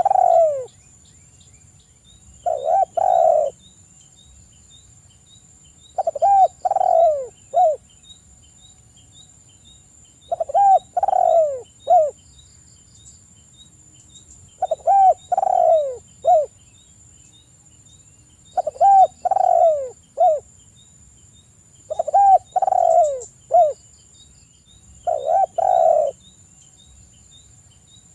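Spotted dove (tekukur) cooing: a phrase of two to four mellow coos, repeated about every four seconds, the last coo of each phrase short and clipped.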